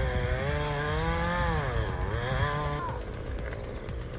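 Chainsaw engine running, its pitch rising and dipping as it works, then dying away about three seconds in.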